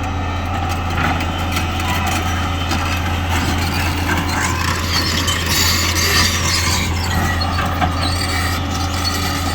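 Heavy diesel engine of a backhoe loader at work, running steadily with a constant low drone, with a louder noisy rattle in the middle.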